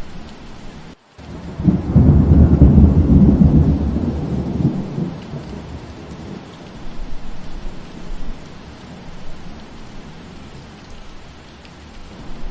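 Steady rain falling, with a deep rumble of thunder that comes in about two seconds in, stays loud for a couple of seconds and dies away. The rain cuts out for an instant about a second in.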